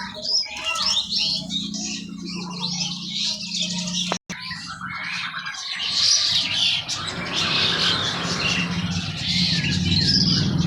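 Many caged songbirds chirping and twittering at once over a low steady hum, with a brief dropout to silence a little after four seconds in.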